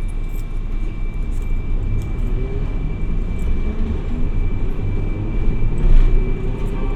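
Hiroden 700 series tram running: a steady low rumble of wheels and running gear, with a motor whine that rises gradually in pitch as the tram picks up speed, and a few light clicks.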